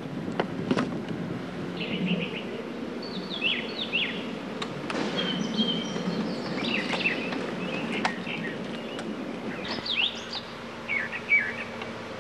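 Songbirds chirping in short, repeated twittering phrases, over a steady low background noise, with a few sharp clicks or knocks.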